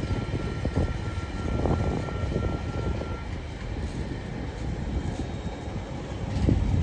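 Freight train's container flat wagons rolling slowly past, steel wheels rumbling and knocking over the rail joints. A thin steady squeal from the wagons runs over this and stops about three seconds in.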